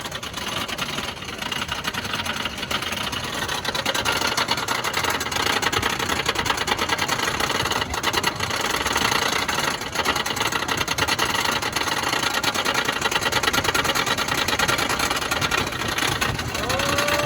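Lightning Racer wooden roller coaster's lift chain pulling the train up the lift hill, a fast, steady clatter of clicks from the chain and anti-rollback dogs. Near the end there is a short rising call.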